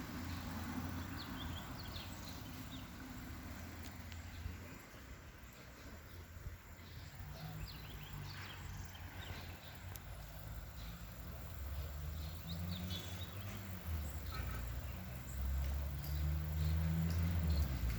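Outdoor ambience: faint, short, scattered chirps over a low rumble that grows louder near the end.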